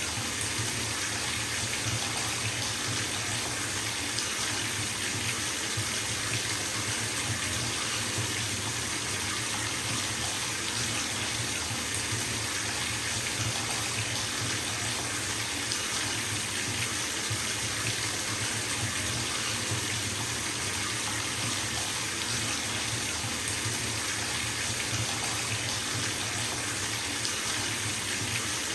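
Bathtub filling from the tap: a steady stream of water splashing into the tub, an even rushing hiss without change.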